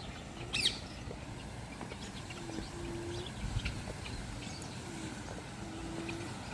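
Birds calling: short, low, level notes repeated several times, two of them held longer, about two and a half seconds in and near the end, with one sharp high chirp under a second in and a soft low thump midway.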